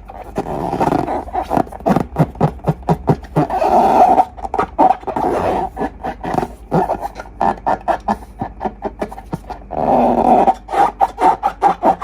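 Slime being squeezed and worked by hand, with a fast irregular run of wet crackling pops and longer squelches.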